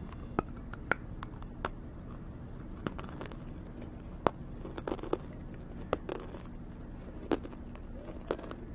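Scattered sharp crunches and clicks of hard roasted cubes being bitten and chewed, irregularly spaced, over a steady low hum.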